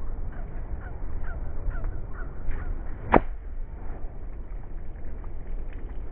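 A bird gives a series of short falling calls, about two a second, then a golf club strikes a ball with a single sharp crack about three seconds in, over a low steady rumble.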